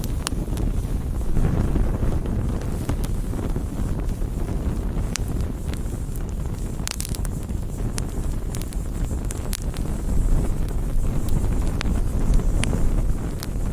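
Wood fire burning with a steady low rumble and frequent sharp crackles and pops, a louder burst of crackling about seven seconds in.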